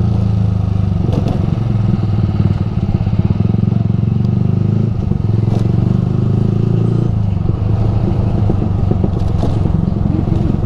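Yamaha R15 V3's single-cylinder engine running through an aftermarket Ronin Musashi exhaust at low speed, a steady deep exhaust note that changes a little about five and seven seconds in.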